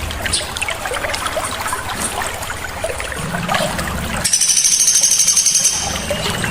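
Small songbirds calling with many quick, sharp chirps. A rapid, high buzzing trill follows from about four seconds in and lasts under two seconds, over a steady low background hum.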